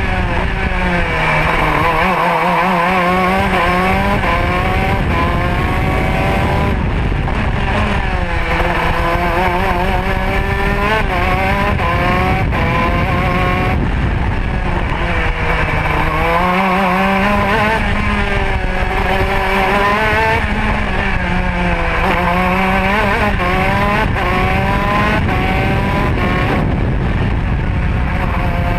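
Modena two-stroke kart engine at full throttle during a lap, heard close up from on board. Its pitch climbs steadily and then drops sharply several times as the kart speeds up and brakes for corners, with the deepest dips about two seconds in and again about sixteen seconds in. A steady rush of wind and rumble runs underneath.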